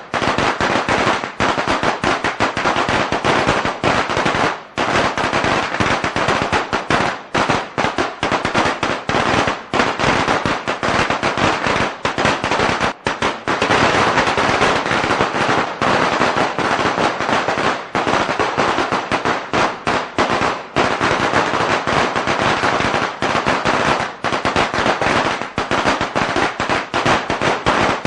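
A string of Chinese firecrackers going off in a loud, continuous rapid crackle of bangs, with only two brief dips.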